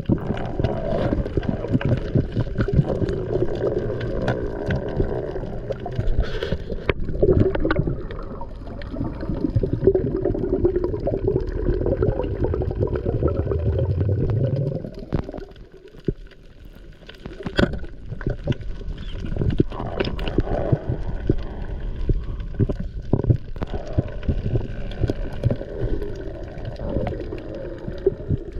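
Muffled water gurgling and sloshing around a camera underwater, with scattered clicks and knocks. It drops away briefly about halfway through.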